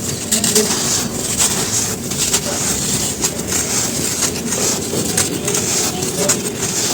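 Dry charcoal ash crumbling and crunching: a dense, unbroken run of crisp crackles and snaps.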